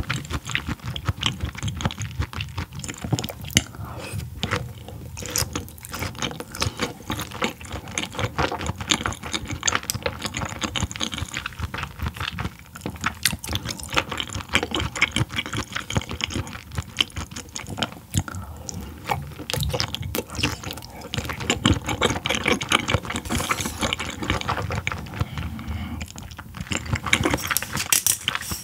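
Close-miked chewing of raw yellowtail sashimi: a dense, irregular run of small wet mouth clicks.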